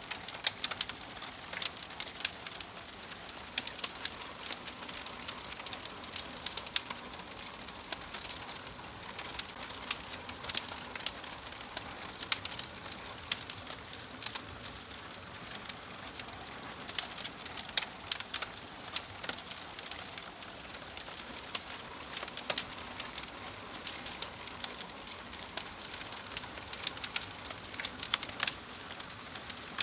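Wood fire crackling in a fireplace: a steady soft hiss with frequent, irregular sharp pops and snaps.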